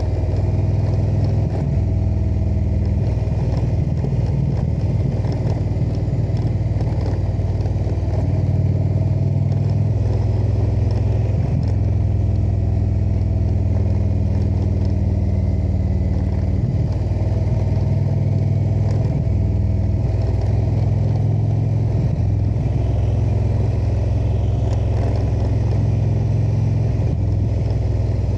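Indian V-twin motorcycle engine running steadily at cruising speed as the bike rides along; its low drone shifts pitch a few times with throttle changes.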